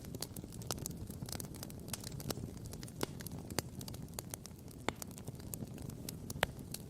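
Wood campfire crackling, with irregular sharp pops and snaps, a louder pop about six and a half seconds in, over a low steady rumble.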